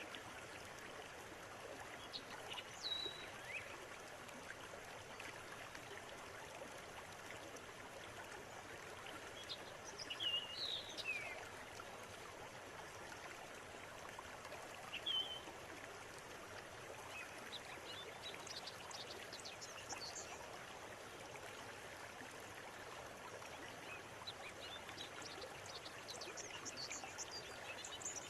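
River water running steadily over its bed, with birds calling over it: a few short chirps about 3, 10 and 15 seconds in, then quick high twittering through the last third.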